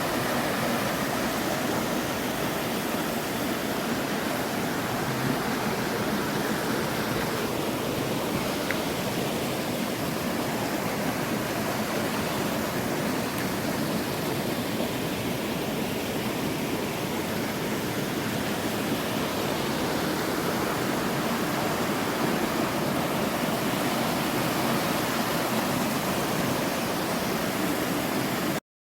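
Mountain valley stream flowing: a steady, even rush of water that stops abruptly near the end.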